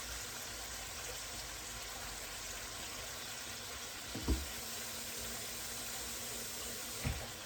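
Chicken breast pan-frying in oil and butter in a skillet, a steady sizzle, with two soft knocks about four and seven seconds in.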